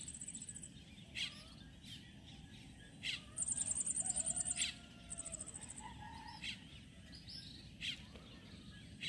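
Birds calling: short falling chirps every second or two, with a high, rapid trill twice in the middle.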